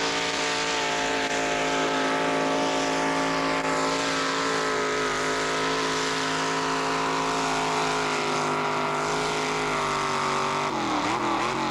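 A tractor engine working under full load on a pull, holding a steady high-revving note. Near the end the revs sag and waver as the engine bogs down.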